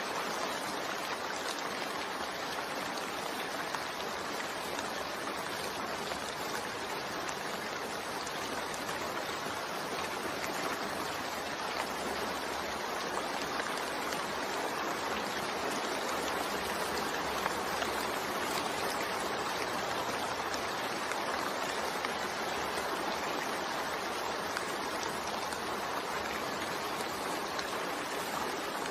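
Steady rainfall, an even hiss of rain with no let-up or change.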